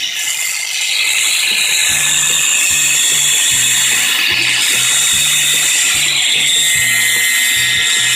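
Angle grinder fitted with a homemade attachment running steadily, giving a loud, high-pitched grinding hiss. Background music with a bass line comes in about two seconds in.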